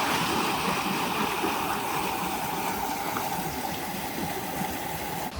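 Steady rushing of running water, like a mountain stream, without a break until it cuts off suddenly at the end.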